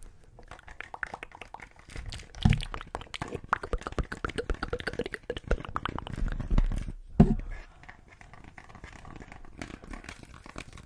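Close-miked handling sounds: a dense run of small clicks and crinkling noises, with a few soft thuds.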